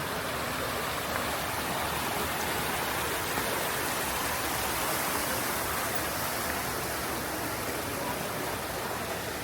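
Steady rushing of water: an even hiss with no separate drops or splashes standing out.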